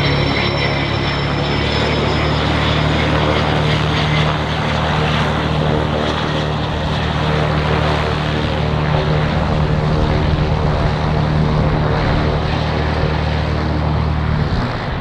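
Aircraft engines running steadily, a constant low hum under a high whine that slides slightly down in pitch over the first few seconds.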